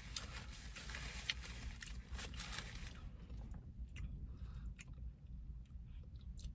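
A person eating a Dairy Queen Blizzard: quiet chewing and mouth sounds with scattered small clicks, busier in the first few seconds and sparser after.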